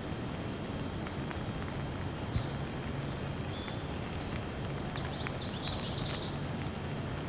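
Steady light rain with birds chirping over it and a few faint ticks. The chirps are high and short, with a quick run of rapid chirps about five seconds in.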